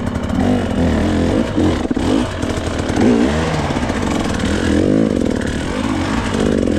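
GasGas hard enduro dirt bike engine revving up and down in repeated throttle bursts, its pitch rising and falling every second or so.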